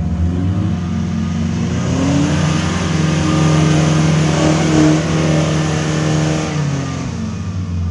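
Off-road 4x4's engine revving hard under load. The pitch climbs over the first few seconds, holds, then eases off near the end.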